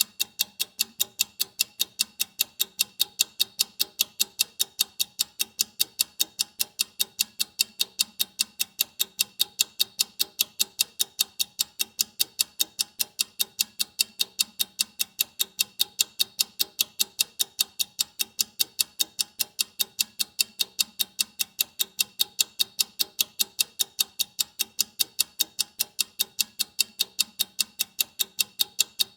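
Clock ticking: quick, perfectly even, sharp ticks repeating without change.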